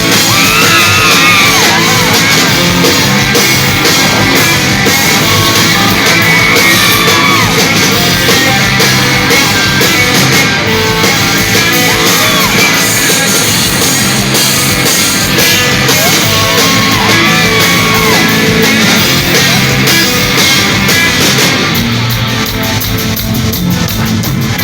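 Rock band playing live, loud guitars and drums carrying a song's instrumental intro, with voices yelling over the music.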